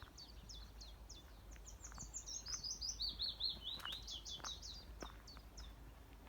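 Small songbirds singing: rapid repeated high chirps that build about two seconds in into a fast run of notes falling in pitch, with a few faint knocks beneath.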